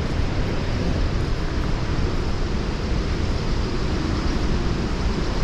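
Waterfall rushing: a steady, dense noise of falling water, heaviest in the low end, with no breaks.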